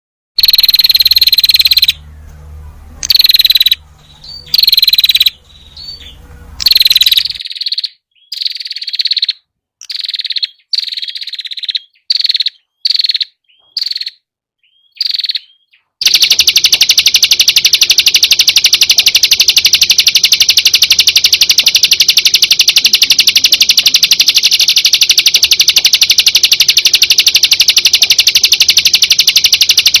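Perenjak (prinia) song: short high chirping phrases about a second long with brief gaps, then about halfway through a continuous, very rapid high trill, the 'tembakan' burst.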